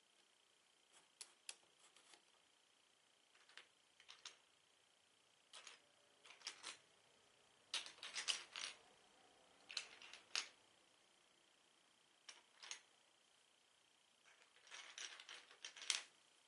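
Plastic Lego pieces clicking and rattling as they are handled and pressed together: short clusters of sharp clicks every second or two, the densest about halfway through and just before the end.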